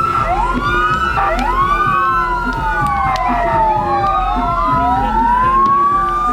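Several sirens wailing at once and overlapping, each rising quickly in pitch and then falling slowly, with a few sharp firework pops among them.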